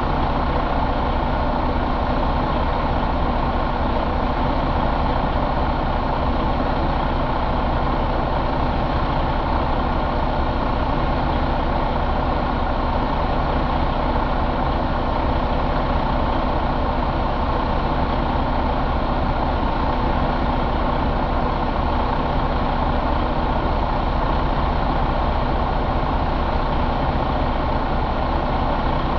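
Detroit DD15 inline-six diesel engine idling steadily.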